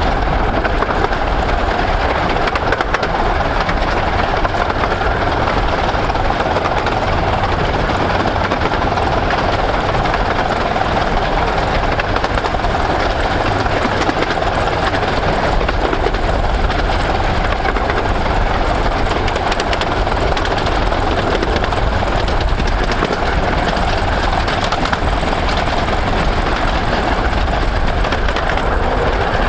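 15-inch gauge Romney Hythe & Dymchurch Railway train running along the line, with a steady rumble of wheels on rails.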